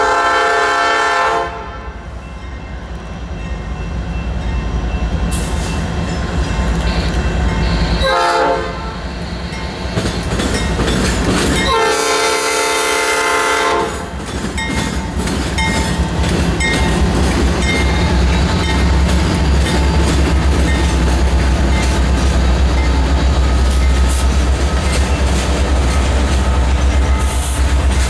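Locomotive air horn sounding three blasts: a long one ending about a second in, a short one about eight seconds in, and a long one about twelve seconds in, the close of the long-long-short-long grade-crossing signal. A train then passes close by with a heavy rumble and steady wheel clatter over rail joints.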